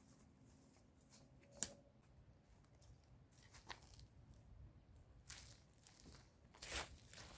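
Near silence with a sharp click about a second and a half in, then a few faint, short rustles or scrapes of handling.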